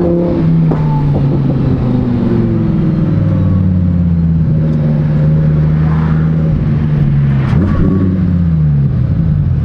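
Supercharged Lamborghini Huracan EVO V10 with a titanium race exhaust, running under way: the engine note rises briefly at the start, falls and holds steady, then rises quickly again about seven and a half seconds in and falls away.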